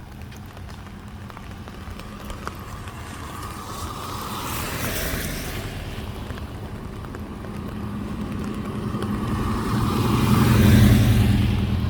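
Two road vehicles passing close by one after the other: the first a lighter swell of tyre hiss about five seconds in, the second louder near the end with a low engine rumble, rising and then fading.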